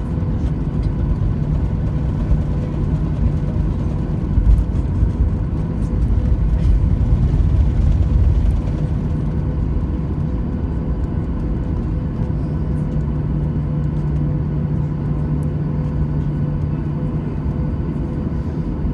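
Steady drone of a Boeing 737-800's CFM56-7B jet engines and rushing air, heard inside the passenger cabin, with a low rumble and a few steady tones under it. It swells a little for a few seconds around the middle.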